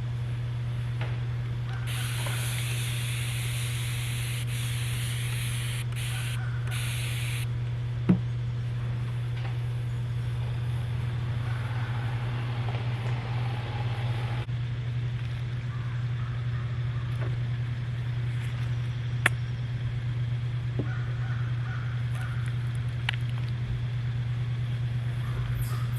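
A spray bottle hisses for about five seconds, breaking off briefly twice, as it mists hair while it is being styled. A steady low hum runs underneath, and there are a couple of sharp clicks.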